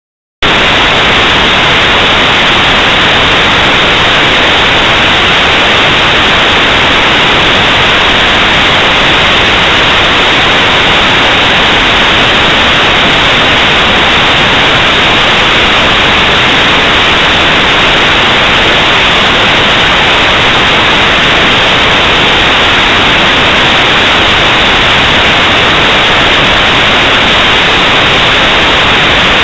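Loud, steady static hiss that cuts in abruptly about half a second in and holds at an unchanging level.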